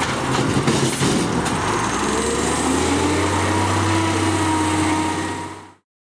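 A garbage truck's diesel engine running, with metallic clatter and knocks in the first second and a half, then a whine that rises in pitch as the engine and hydraulics work. The sound fades out quickly about five and a half seconds in.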